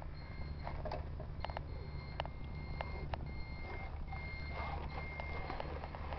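Radio-controlled Kamaz model truck: a steady low hum with a high reversing beeper sounding on and off, and scattered sharp clicks.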